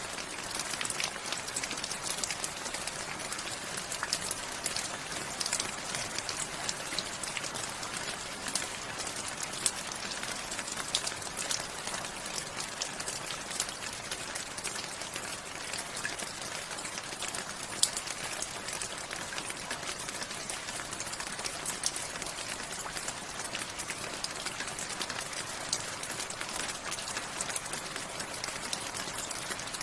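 Steady rain: a dense, even hiss with many sharp individual drop hits ticking close by. A couple of single drops stand out louder, about ten and eighteen seconds in.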